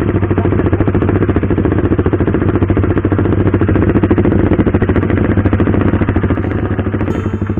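KTM RC 390's single-cylinder engine running at steady low revs with an even pulsing beat, easing off slightly near the end.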